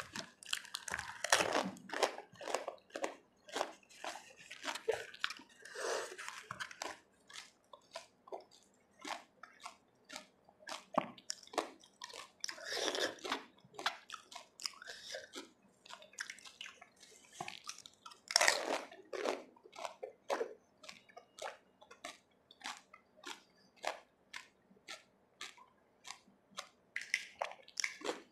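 Close-up crunching and chewing of pani puri: crisp hollow puris bitten and chewed whole, with many sharp crunches. Every few seconds there is a louder wet burst as a puri filled with spiced water is taken in or dipped.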